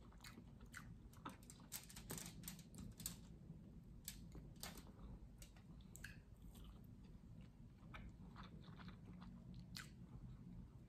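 Quiet, close chewing of a mouthful of crisp cucumber, with irregular crunches.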